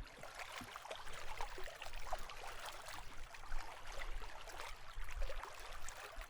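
Outdoor wind: a steady hiss with uneven low rumbling where it buffets the microphone, and a few faint ticks.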